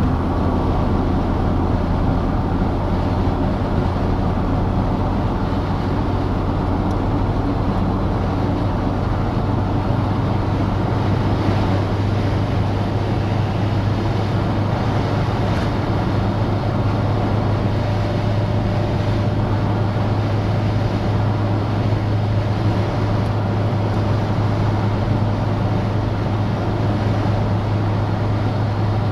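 Citroën DS driving at a steady speed: a steady low engine drone under an even rushing road and wind noise.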